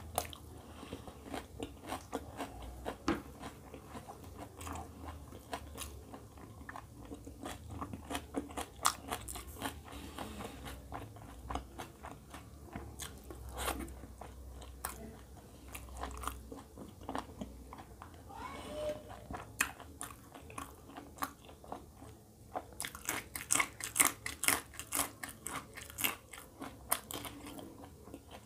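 Close-miked eating by hand: chewing of roti and egg curry, with crisp crunches of raw onion and many wet mouth clicks. The crunching grows denser and louder near the end.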